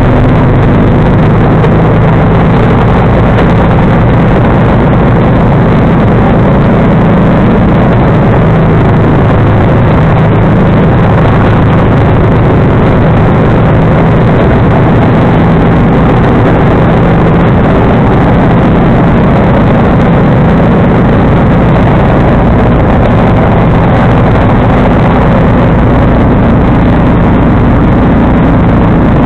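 Loud, steady running of a John Deere 445 lawn tractor's liquid-cooled V-twin engine working a 47-inch snowblower, holding an even speed throughout.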